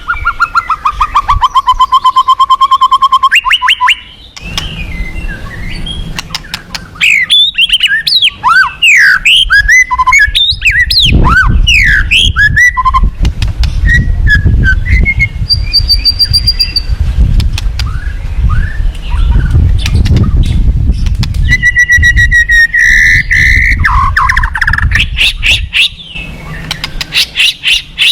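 White-rumped shama (murai batu) singing a fast, varied song: a rapid trill of repeated notes, then a run of sweeping whistles and glides, over the low steady rush of fast-flowing river water.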